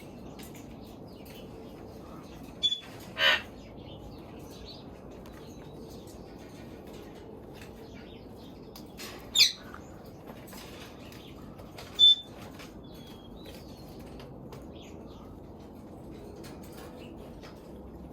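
Parrots calling now and then: a brief whistled note and a short harsh squawk a few seconds in, another squawk about halfway through, and a sharp whistle soon after, over a steady low background.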